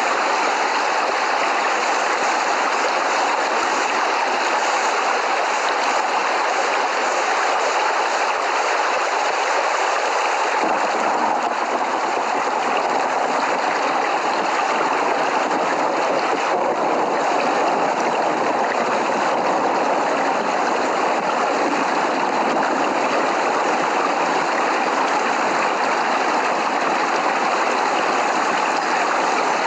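Steady rain falling, an even, dense hiss with no thunder claps. About ten seconds in it grows fuller and deeper.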